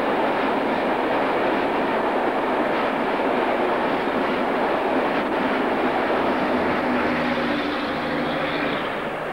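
Freight train of mixed wagons rolling past, the steady noise of its wheels running on the rails.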